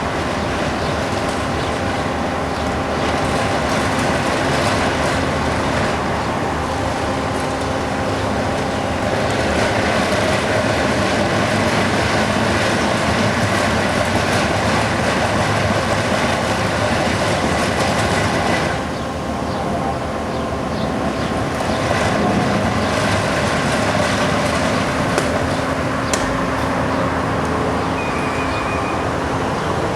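Bobcat skid steers at work on road milling, their diesel engines running steadily at high revs under a dense, continuous grinding clatter. The noise dips briefly a little past halfway, then picks up again.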